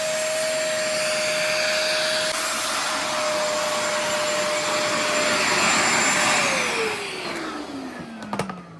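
Bissell portable carpet and upholstery spot cleaner running, its suction motor giving a steady whine. About six seconds in it is switched off and the whine falls in pitch as the motor winds down, with a couple of clicks near the end.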